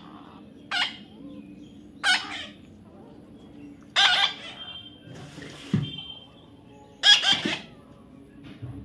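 Pet parrot squawking: short, harsh calls repeated every second or two.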